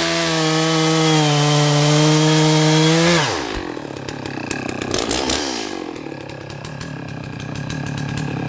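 Chainsaw running at full throttle, cutting through a downed oak log. About three seconds in the throttle is released: the pitch falls sharply and the saw drops to a rougher idle.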